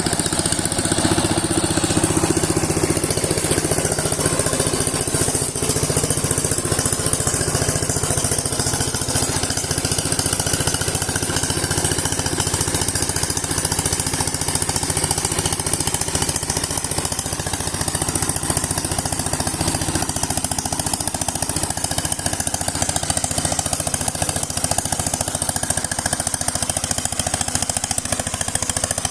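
Sifang power tiller's single-cylinder diesel engine running steadily, with a rapid, even beat of firing pulses.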